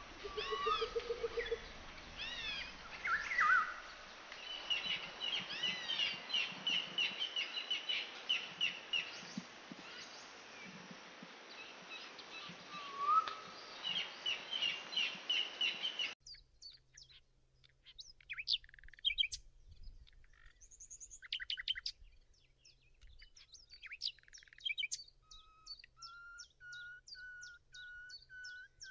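Birds calling: quick chirps and fast trilled phrases over a steady hiss. About halfway the sound changes abruptly to a cleaner run of sharp chirps, and near the end a series of repeated whistled notes that rise slightly in pitch.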